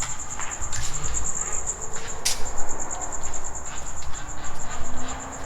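Crickets chirping: a high, steady trill pulsing rapidly and evenly, under a low rumbling noise and a couple of short clicks.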